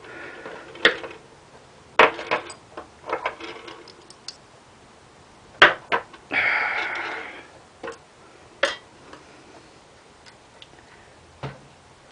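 Light metallic clicks and clinks of push rods and rocker arm parts being pulled out and set down during teardown of a Predator 212 engine's cylinder head, with a rustle lasting about a second around six seconds in.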